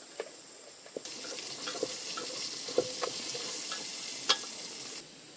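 A steady sizzling hiss with scattered knocks and clinks over it, starting abruptly about a second in and cutting off abruptly shortly before the end; a few soft clicks come before it.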